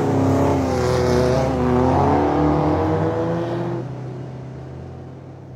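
Beach buggy engine running and revving, its pitch rising and falling, then dropping back to a quieter, steady lower hum for the last second or so.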